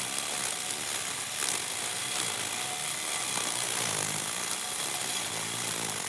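Small motor of a miniature lawn mower running steadily with a noisy, buzzing whir and a few light clicks.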